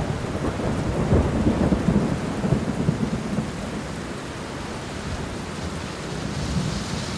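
Rain falling with a rumble of thunder, the thunder strongest in the first few seconds and easing into steady rain.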